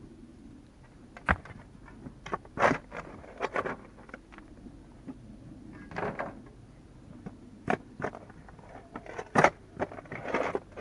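Irregular sharp knocks and short scrapes of manual work in earth and stone, the sharpest knock about nine seconds in.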